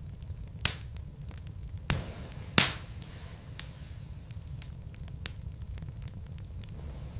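Wood fire in a fireplace: logs crackling over a low steady rumble of flame, with sharp pops, the loudest about two and a half seconds in.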